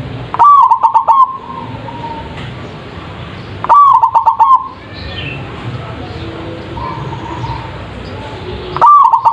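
Zebra dove (perkutut) cooing: three loud calls a few seconds apart, each a quick run of pulsed notes lasting under a second. Under them is a steady hiss with faint high chirps.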